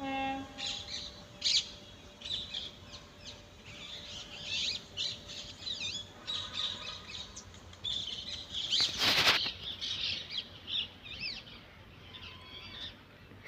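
Several birds chirping and calling in quick, overlapping short notes and sweeping whistles, with a brief rush of noise about nine seconds in.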